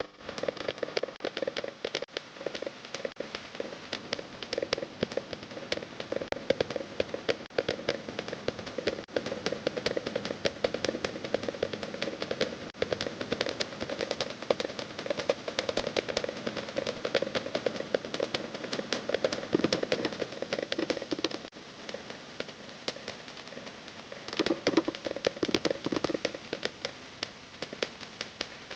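Fast, dense percussion: a rapid run of sharp drum strikes over a steady pitched tone.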